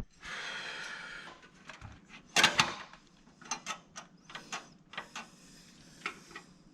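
Computer parts being handled during a PC build: a rustling scrape for about a second and a half, one loud clack about two and a half seconds in, then a string of light clicks and taps.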